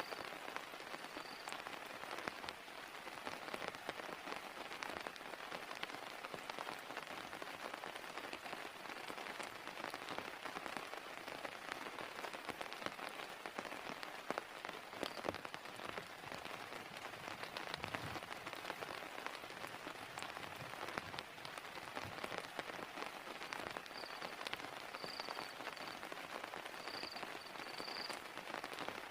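Heavy rain falling steadily, a dense patter of countless drops on surfaces. A few short high chirps sound briefly near the end.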